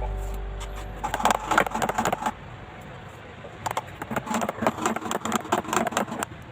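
Background music fades out. Then two runs of rapid, light clicks and crackles follow: one of about a second, then a longer one of about two and a half seconds.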